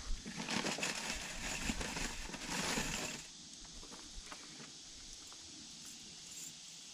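Irregular rustling and crunching, like someone moving through dry ground cover, for about three seconds, then a quiet outdoor background with a few faint clicks.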